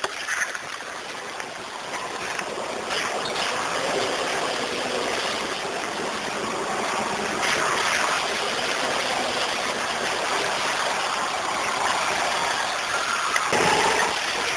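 Water rushing and splashing steadily around a vehicle as it drives through a deep flooded stretch of dirt road, pushing a wave ahead of it.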